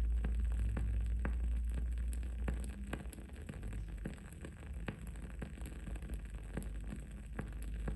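Wood wick candle crackling: irregular small pops and ticks, several a second, over a steady low rumble that eases off about two and a half seconds in.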